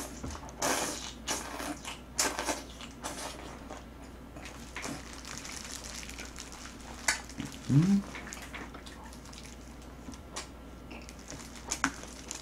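Wet, close-up chewing and lip-smacking of a mouthful of boiled pork and green onion kimchi, in many short irregular bursts. A brief rising vocal sound comes about eight seconds in.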